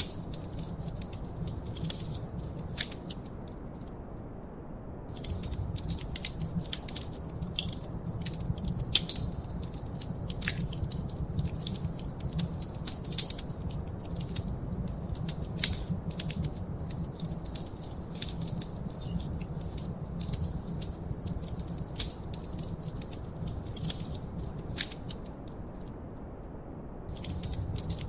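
Wood fire crackling and popping in a fireplace: dense irregular snaps over a low steady rumble. The crackling drops out for about a second twice, once around four seconds in and once near the end.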